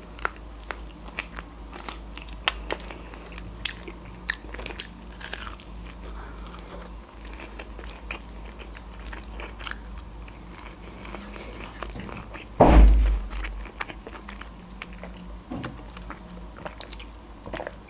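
Close-miked chewing and biting of crispy fried chicken, with many small crunches and mouth clicks. About two-thirds of the way through, a single loud low thud from a balcony door.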